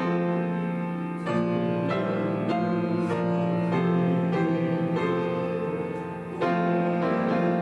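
Piano playing slow, sustained hymn chords that change every second or so.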